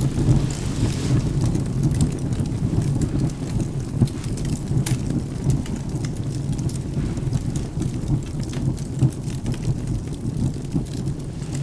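Wood fire crackling, with sharp pops every so often, over steady rain and a low rumble of thunder.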